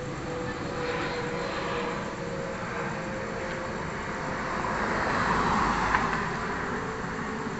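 Airbus A320 jet airliner passing, its engine rush swelling to a peak about five to six seconds in and then easing off.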